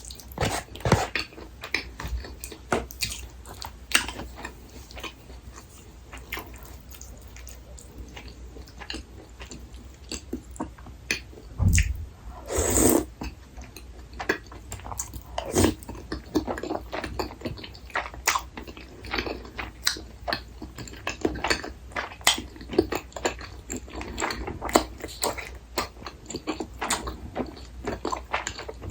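Close-miked eating sounds: a person chewing and biting food, with many small wet mouth clicks and smacks throughout. There is one louder, longer noisy sound with a low thump about 12 to 13 seconds in.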